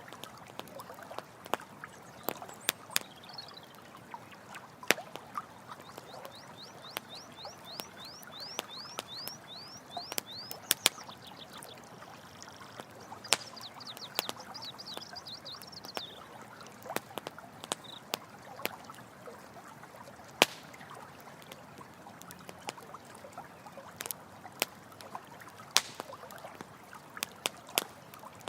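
Campfire crackling with frequent sharp pops over a steady rush of running water. Twice, a rapid run of high-pitched chirps comes in, about eight a second, lasting several seconds each time.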